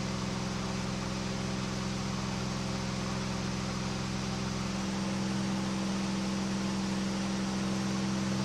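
KR2 light aircraft's piston engine and propeller droning steadily at cruise power, with a constant hiss of airflow, heard from inside the cockpit.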